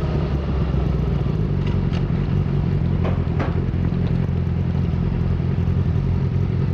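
Yamaha YZF-R6 sport bike's inline-four engine running low and steady as the bike rolls slowly at low speed, with a few light clicks about two and three seconds in.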